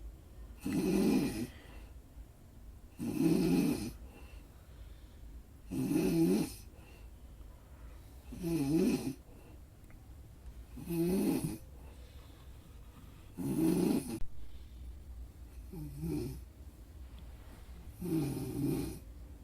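Snoring in a slow, even rhythm: eight snores, about one every two and a half seconds, each lasting roughly a second.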